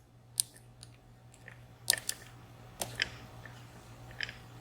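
Light metallic clicks and ticks, about six spread irregularly, from lock-picking tools working in the keyway of a high-pin-count VSR dimple lock.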